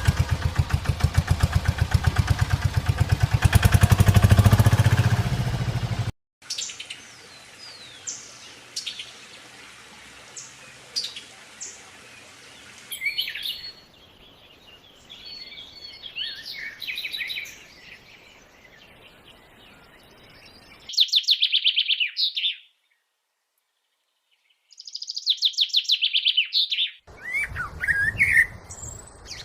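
A small engine runs with a rapid pulsing beat for about six seconds and then cuts off suddenly. Birds chirp and call through the rest, with a short silent gap in the middle.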